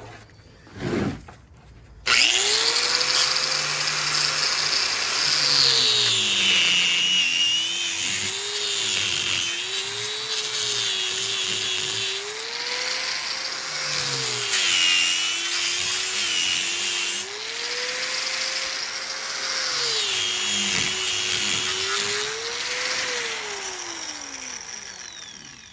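Electric power tool cutting into scrap welder parts. Its motor starts abruptly about two seconds in, and its whine sags three times as it bites into the work and recovers in between. Near the end it winds down.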